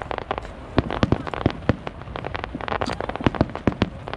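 Aerial fireworks going off: many sharp bangs in quick, irregular succession, with a dense burst of crackling bangs about two and a half seconds in.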